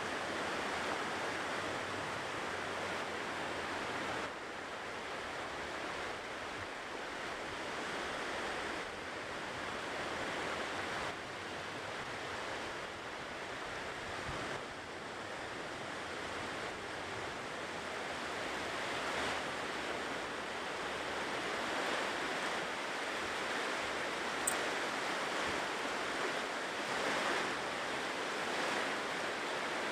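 Ocean surf washing steadily on a shore, a continuous rush that swells and eases gently.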